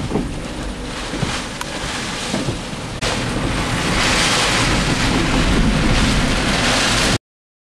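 Storm wind and rain buffeting the microphone in a steady, loud rush. About three seconds in it jumps louder and hissier, then cuts off abruptly near the end.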